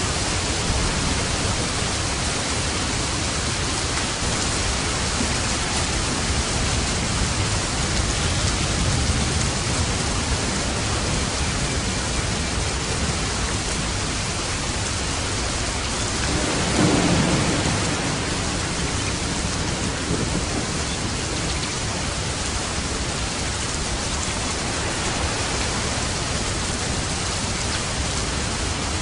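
Steady, heavy rain falling, with a low rumble of thunder swelling and fading about halfway through.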